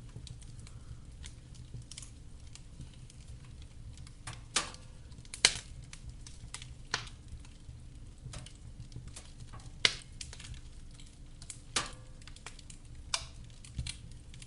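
Wood fire burning in a fireplace, crackling: irregular sharp pops and snaps over a low, steady rumble of the flames, with a few louder pops about five and ten seconds in.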